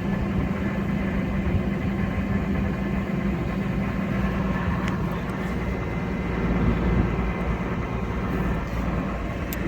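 Case 140 tractor's diesel engine running steadily as the tractor moves on to the next hay bale.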